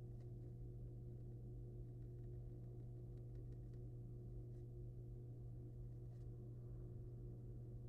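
Steady low electrical hum with several fainter steady tones above it, with a few faint, short ticks and scratches around the middle.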